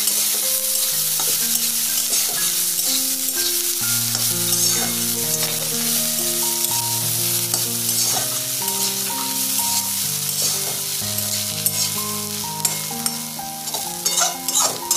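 Chopped chickpea greens and potato frying in oil in a karahi, sizzling steadily while a spatula stirs and scrapes them around the pan in many short strokes. A quiet instrumental melody plays underneath.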